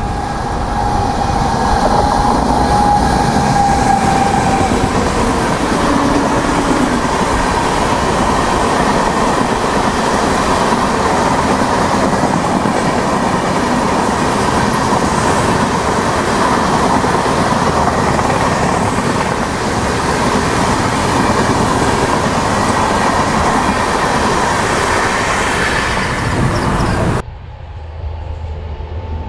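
An Indian Railways parcel express of red LHB parcel vans behind a WAG-9 electric locomotive passing at speed, its wheels clattering steadily over the rails; a high ringing tone fades out in the first few seconds. About 27 seconds in the sound cuts abruptly to a much quieter outdoor background.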